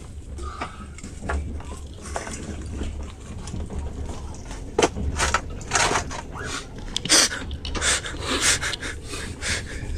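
Steady low rumble of a moving train carriage, with short scraping and rustling noises from about halfway through as food is handled in a styrofoam takeaway box.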